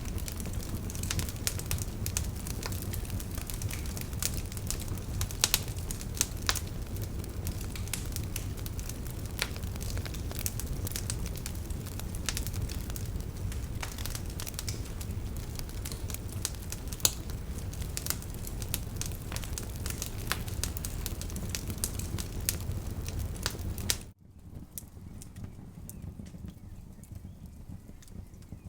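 Campfire crackling, with frequent sharp pops and snaps over a steady low rumble. About 24 seconds in it cuts off abruptly, leaving a much quieter, sparser sound.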